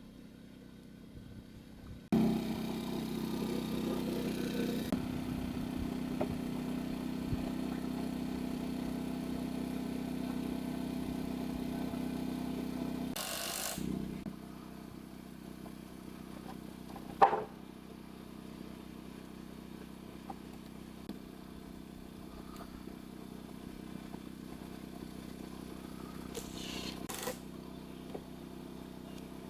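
A motor running steadily. It starts suddenly about two seconds in and drops to a quieter steady hum about halfway through, with one sharp knock a few seconds later.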